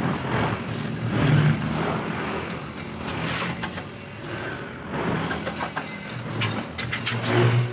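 Electric jigsaw cutting through iron: a steady motor hum under the rasp of the reciprocating blade in the metal. It gets louder about a second and a half in and again near the end.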